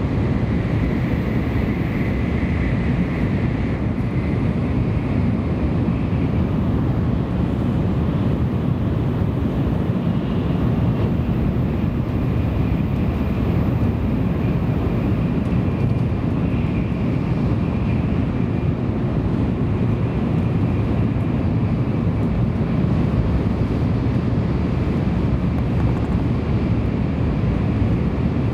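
Cabin noise of a Tokaido Shinkansen train running at speed: a steady low rumble from wheels, track and air, with a faint high whine over it.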